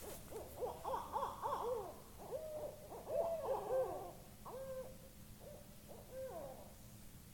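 An owl hooting: a quick run of short hoots that rise and fall, then several longer hoots that drop away at the end, stopping shortly before the end.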